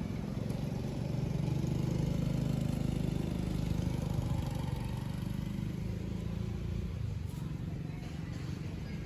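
Steady low hum of a running motor, a little louder a second or two in and easing off after about seven seconds.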